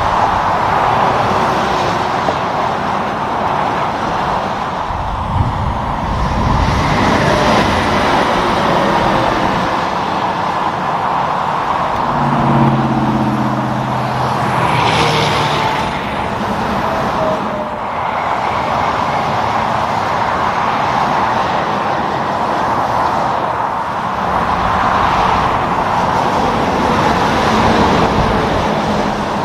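Steady roadside traffic noise with several vehicles passing. About twelve seconds in, a truck's engine note stands out for a few seconds as it goes by.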